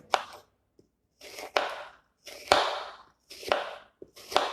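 A knife slicing an apple into thin slices, five cuts about a second apart, each a short crisp cut.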